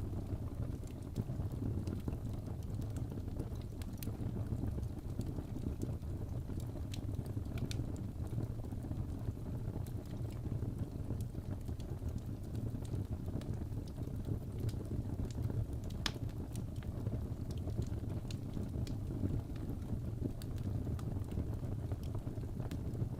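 Crackling fireplace ambience: a wood fire burning with a steady low rumble and scattered sharp crackles and pops, one louder pop about two-thirds of the way through.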